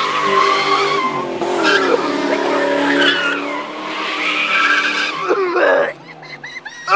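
Ford Mustang GT's V8 held at high revs through a MagnaFlow exhaust during a standstill burnout, the rear tires spinning and squealing against the pavement. The noise drops away sharply about six seconds in as the burnout ends.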